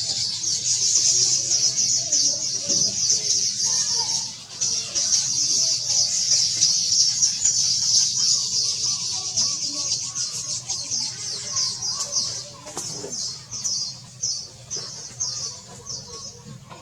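Baya weavers chattering: a dense, rapid, high-pitched chatter that thins into separate short bursts, about two a second, in the last few seconds.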